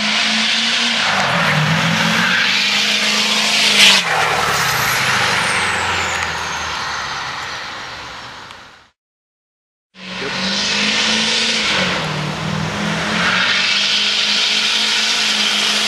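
Tuned Duramax turbodiesel V8 of a Chevrolet Express van running hard, its engine note rising and dipping over a loud rush of turbo and exhaust noise. A sharp crack about four seconds in is followed by a high whistle falling away as the sound fades; it breaks off for about a second, then the engine is heard pulling hard again.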